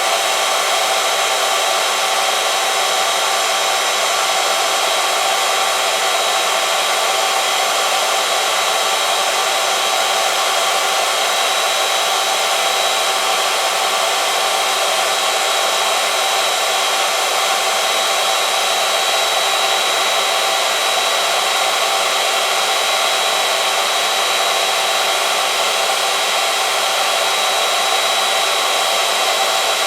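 Oil-film friction test machine running steadily, its motor-driven roller rubbing against a metal test sample in oil: an even whirring hiss with several constant high whining tones.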